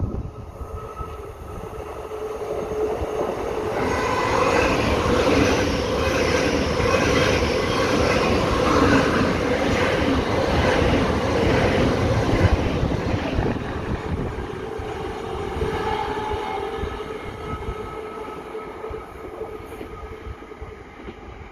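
A train passing through the station. It builds over the first few seconds, stays loud for about ten seconds with a rhythmic clatter of wheels over the rails, then slowly fades away.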